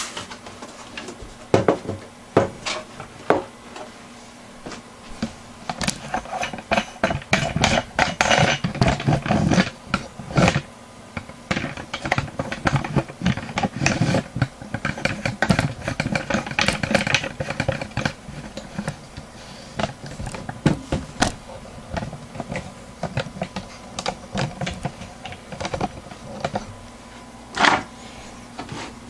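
Hands working on the plastic and metal parts of a Dell Inspiron 3646 desktop: irregular clicks, taps and rubbing, busiest in the middle and sparser near the end, over a faint steady hum.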